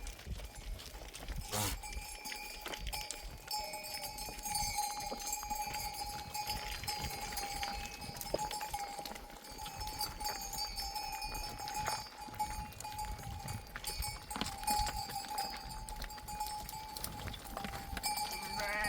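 A flock of sheep with bells on, the bells clinking and ringing as the animals move and graze, with scattered small knocks of hooves on stony ground.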